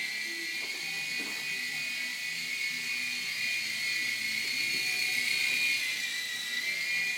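Air Hogs toy RC helicopter's small electric motor and rotors in flight, a steady high-pitched whine that sags briefly in pitch near the end and picks back up.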